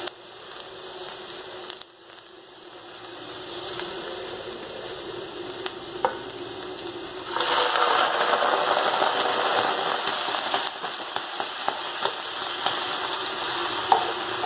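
Chopped onion sizzling in olive oil and sugar in a frying pan as it caramelizes, with light clicks of a utensil stirring. The sizzle grows clearly louder about halfway through and stays up.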